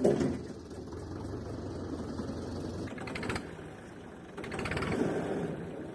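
Tractor engine running with a fast, even chugging rhythm, swelling louder for about a second near the end.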